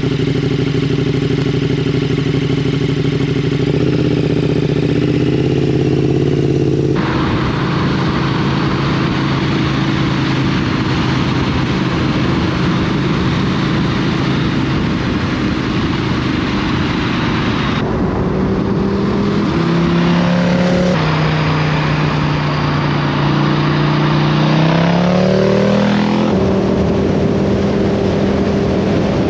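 KTM 1290 Super Duke's V-twin engine running at steady revs on the move, with wind rushing over the microphone that gets stronger about a quarter of the way in. Past the middle the revs drop, then climb again in steps as the bike slows and pulls away.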